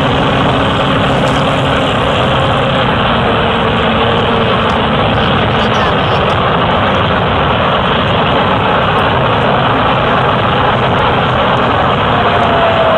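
Cessna light aircraft's engine and propeller running steadily at a constant loud level, heard from a camera mounted on board.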